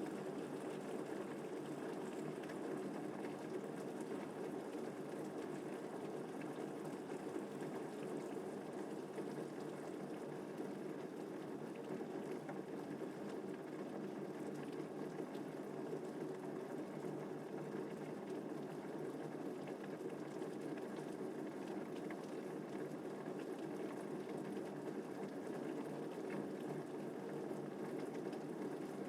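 Steady rain falling, an even, unbroken wash of water sound with no thunderclaps.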